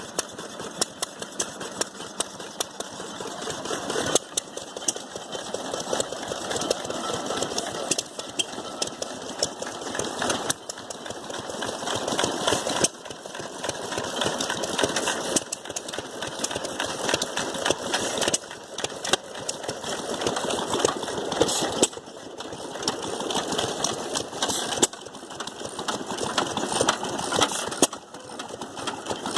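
Hit-or-miss stationary engines running, a quick run of firing knocks with a sharper bang about every three seconds as they fire and coast.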